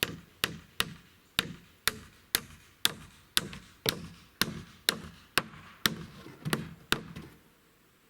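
A hand tool striking something hard, with even strikes about two a second, some fifteen in all, stopping about seven seconds in.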